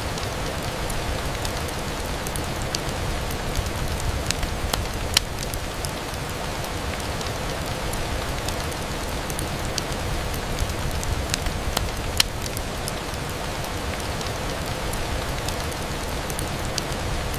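Steady rain on a window, an even hiss with a low rumble underneath, broken by scattered sharp ticks every second or two.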